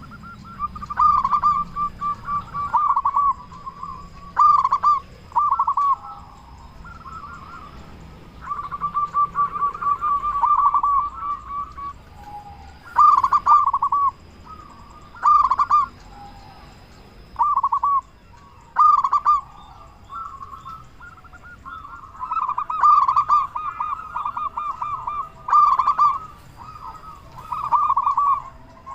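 Zebra dove (perkutut) cooing in short bouts of quick staccato notes, a phrase every second or two with brief pauses between. It is a loud, full-voiced male song of the kind used to set other zebra doves calling.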